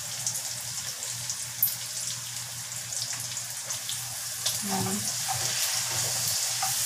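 Food sizzling in a hot wok, a steady high hiss, with a spatula scraping and stirring through the pan more actively in the second half.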